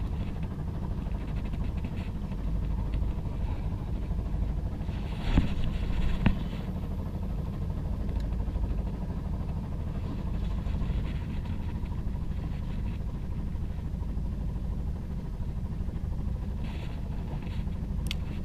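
A boat's engine running steadily, a low rumble. Two brief knocks are heard about five and six seconds in.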